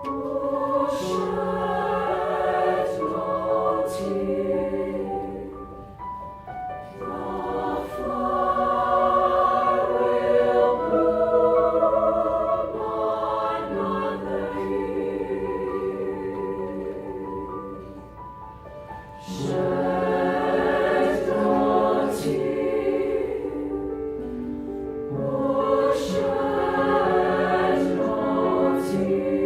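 High school choir singing in several parts, with long held notes and crisp consonants. The sound eases briefly between phrases about six and eighteen seconds in.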